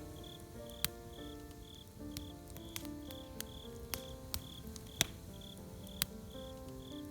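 Crickets chirping steadily, about two chirps a second, with a campfire crackling and giving sharp pops now and then, the loudest about five seconds in. Soft background music with slow held notes runs underneath.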